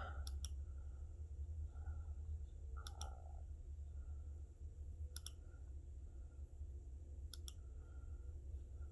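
Computer mouse clicking in quick pairs, four double clicks about two seconds apart, over a low steady electrical hum.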